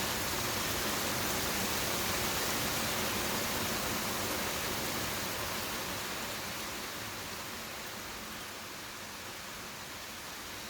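Steady rain falling, an even hiss, growing somewhat softer from about halfway through.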